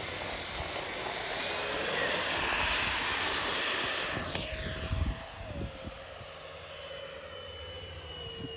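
Electric RC model airplane motor whining as it is throttled up for takeoff, rising in pitch. It is loudest a few seconds in, then drops away suddenly to a fainter, steady whine as the plane flies off.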